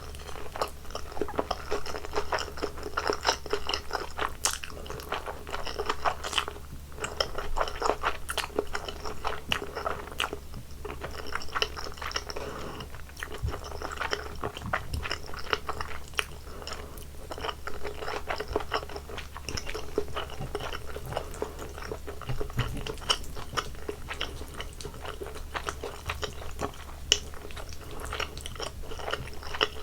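Close-miked eating sounds: a person chewing with steady, irregular wet mouth clicks and crunchy bites, over a low steady hum.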